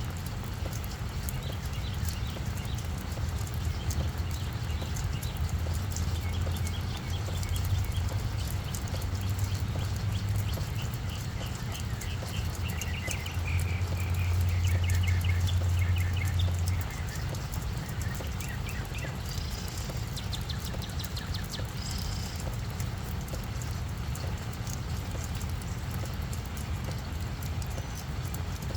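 Rain falling on a flower bed, with many separate drops tapping over a low steady rumble that swells in the middle. Series of quick high chirps, like a small bird calling, come and go through the middle stretch.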